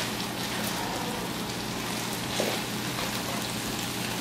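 Chicken sizzling steadily in a hot frying pan, nearly cooked through.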